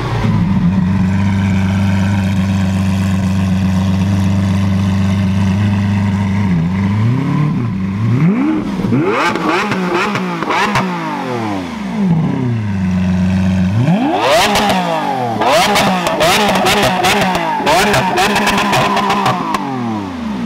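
Lamborghini Aventador LP700-4's 6.5-litre V12 idling steadily, then revved in a series of quick throttle blips, settling briefly back to idle before a second, faster run of revs with sharp cracks among them, and dropping back to idle near the end.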